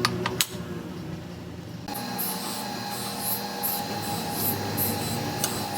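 A few sharp clicks, then a metal lathe starts running about two seconds in, with a steady whine and a rhythmic scraping about twice a second, as if the tool is cutting metal.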